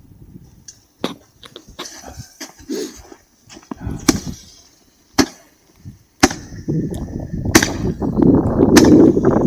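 Scattered sharp clicks and knocks, then about six seconds in a consumer firework fountain catches with a crack and sprays, a steady rushing hiss with crackles that gets louder.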